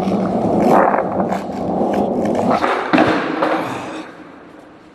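Skateboard wheels rolling on wet pavement, a steady rumble with a few clacks and a sharper knock about three seconds in, then fading away near the end.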